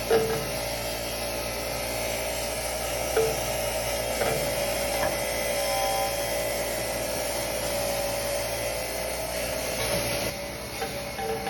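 Power sander running steadily against rusty metal, sanding the rust off, with a few brief knocks.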